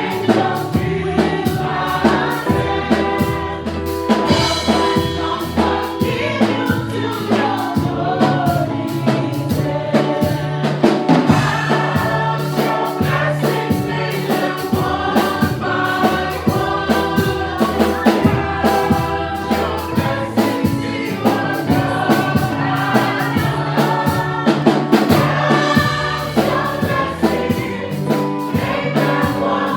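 Gospel choir singing a worship song over a band with bass and a steady beat.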